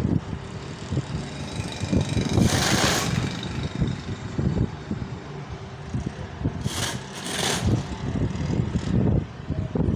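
Small DC motor of a homemade toy tractor running with a faint steady whine, under constant rattling and crackling as the model drives. A few short bursts of hiss come about two and a half seconds in and twice around seven seconds in.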